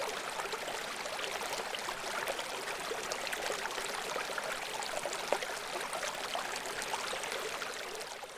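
Babbling brook: water flowing and splashing in a steady, dense trickle, fading out near the end.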